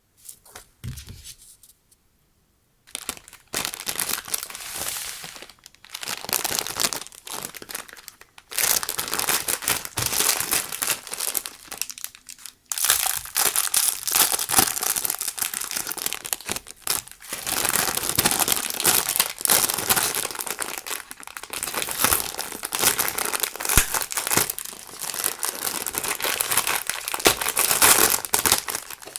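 Crinkling of stationery packaging as it is handled, a dense crackle with short pauses about 2, 8 and 12 seconds in.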